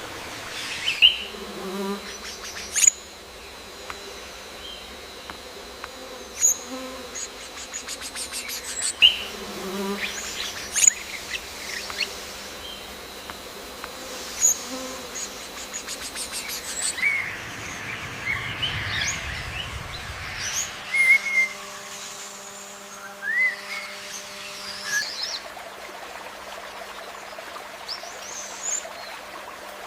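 Birds giving short scattered chirps over a steady insect buzz, with a few sharp clicks in between.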